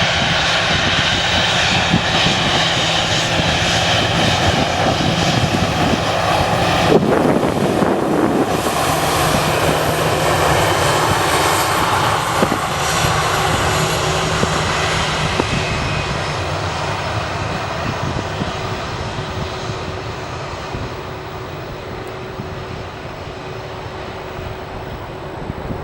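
Jet airliner engines, a loud steady rush with a high whine, that slowly fade away over the second half as the aircraft moves off.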